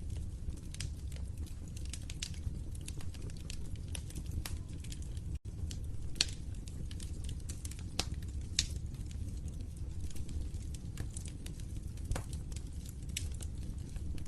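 Wood fire crackling, with frequent sharp pops and snaps of varying loudness over a steady low rumble of the flames. A split-second dropout cuts the sound about five seconds in.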